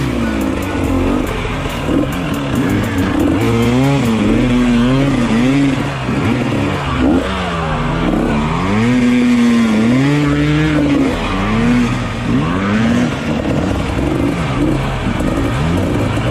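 Dirt bike engine sound revving up and down over and over, its pitch rising and falling in waves about once a second.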